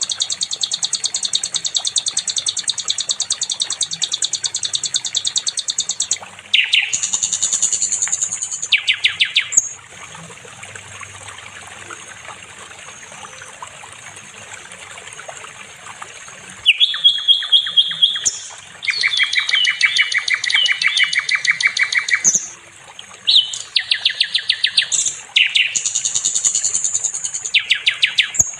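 Sikatan londo, a songbird of the flycatcher kind, singing long, fast trills of rapidly repeated high notes. About ten seconds in, the trills give way to a quieter stretch of a thin, high, steady whistle for several seconds, then the trills start again.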